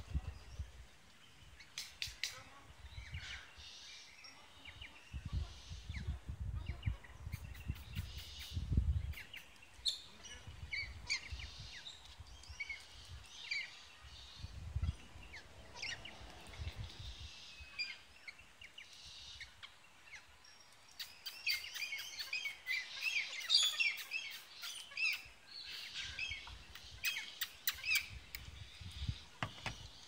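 Wild birds chirping and calling in quick, high notes, busiest in the second half, with occasional low rumbles in the first half.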